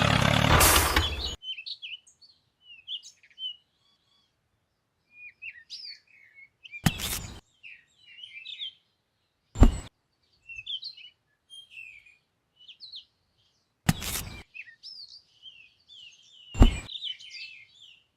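Small birds chirping and twittering in quick, high calls. A loud rushing noise cuts off about a second in, and four short, loud knocks or thuds stand out, the sharpest near 10 and 17 seconds.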